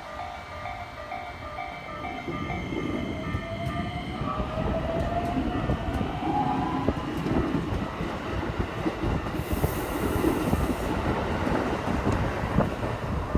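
Level-crossing alarm bell ringing in an even pulse at first, then an electric commuter train coming through, its motor whine rising in pitch as it accelerates over a growing rumble of wheels on rail.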